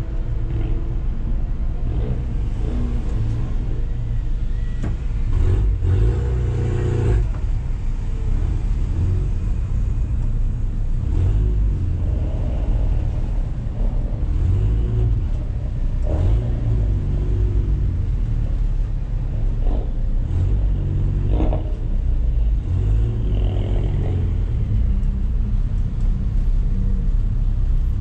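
Renault Megane 3 RS's turbocharged 2.0-litre four-cylinder engine running at low revs inside the stripped, caged cabin, its pitch rising and falling a little now and then as the car creeps forward in slow traffic.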